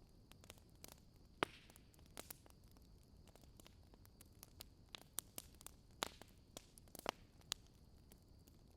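Wood fire crackling: irregular sharp pops and snaps over a faint steady hiss, the loudest pop about a second and a half in and a cluster of louder pops between six and seven and a half seconds in.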